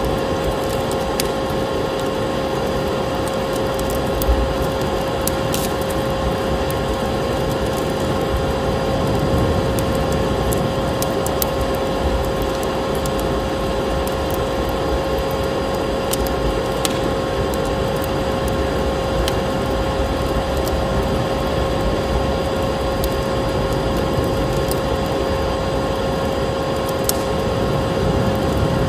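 Vacuum cleaner running steadily with a constant whine, mixed with a crackling wood fire that gives scattered sharp pops over a steady rushing noise.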